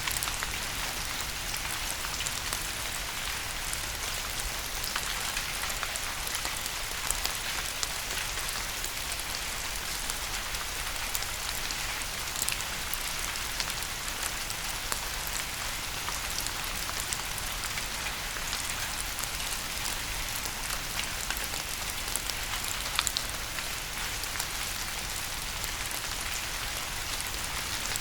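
Steady rain falling: an even hiss with scattered sharp ticks.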